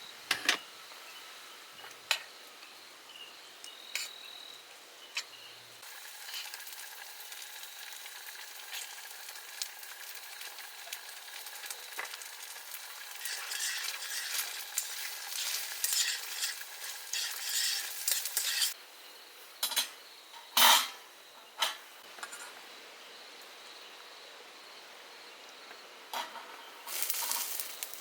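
Food sizzling in a hot pan, starting about six seconds in, with a utensil stirring and clinking against the pan. The sizzle and stirring grow busier midway, there are a few loud knocks, then it settles to a quieter sizzle.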